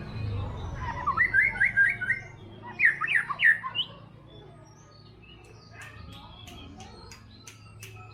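White-rumped shama singing: quick runs of chirping notes, then a louder burst of sweeping notes about three seconds in, followed by fainter sharp ticks.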